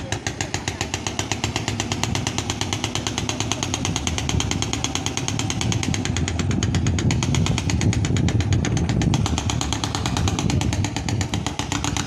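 Engine of a bhotbhoti motorised boat running steadily: a loud, fast, even chugging of many beats a second.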